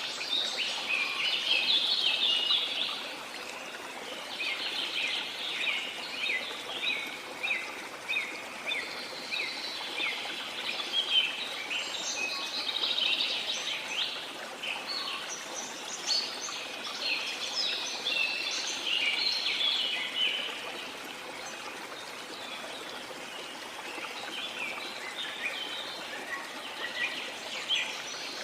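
Several birds singing in dense runs of rapid chirps and whistles over a steady rush of running water, the song thinning out briefly about three-quarters of the way through.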